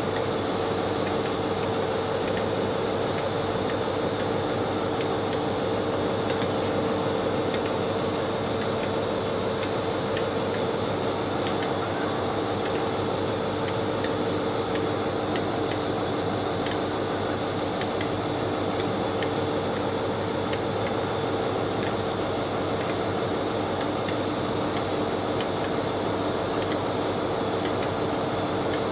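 Steady hum of a Hitachi Intercity Express Train's traction and cooling equipment as the train crawls slowly along the line, two held tones over an even hiss with no change in loudness.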